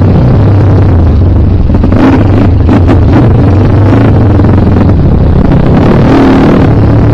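Kawasaki KLX trail bike engine running loud and close under throttle, its pitch shifting a little as the rider works through the terrain.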